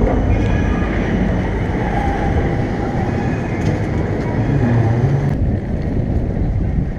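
A city tram passing with a steady rumble of wheels on rail; the higher part of the noise drops away about five and a half seconds in.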